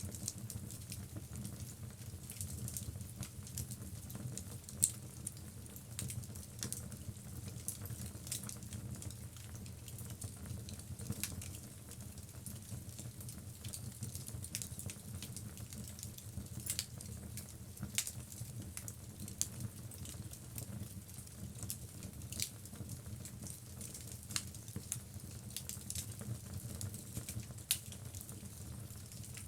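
Wood logs burning in a fireplace: irregular sharp crackles and pops over a steady low rumble, with one louder pop about five seconds in.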